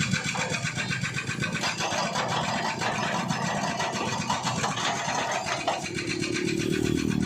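A small engine running steadily with a fast, even pulse. Near the end a steady pitched hum joins it for about two seconds.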